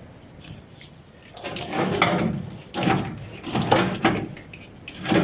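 Four short bursts of scraping and clattering as parts are handled and moved around in a garage.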